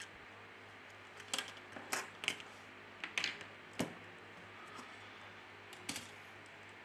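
Faint small clicks and snaps, about nine scattered over a few seconds: the LG K4 2017's middle frame being worked loose from the phone.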